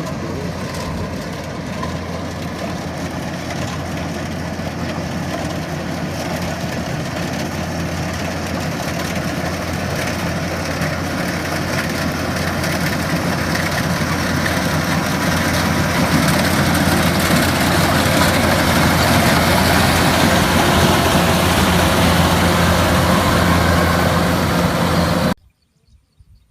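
Engine of a rice-harvesting machine running steadily. It grows louder through the first two-thirds, then cuts off suddenly near the end.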